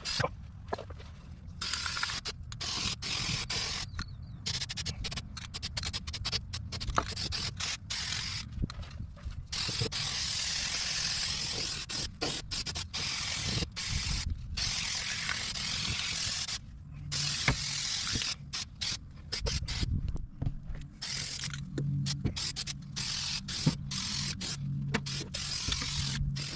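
Aerosol spray can spraying in repeated short bursts, with one longer continuous spray in the middle.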